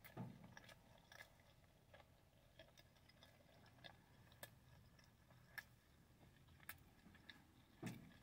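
Faint, irregular mouth clicks of a person chewing a bite of soft flour-tortilla chicken wrap with closed lips, about one a second, against near silence.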